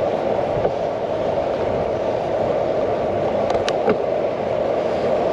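Steady rushing noise of a bicycle on the move, picked up by a handlebar-mounted GoPro: wind over the camera and tyres rolling on the path. A couple of short clicks come a little past the middle.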